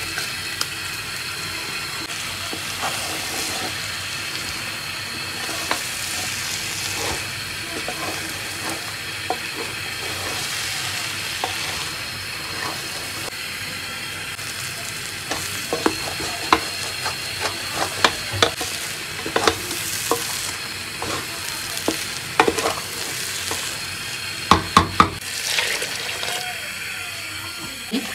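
Rice and lentils stir-fried in hot oil in a pan: a steady sizzle with stirring scrapes and knocks against the pan, the knocks coming more often and louder in the second half.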